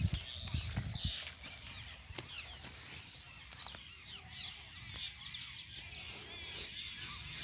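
Many small birds chirping at once, with a low rumble and a few knocks in the first second or so.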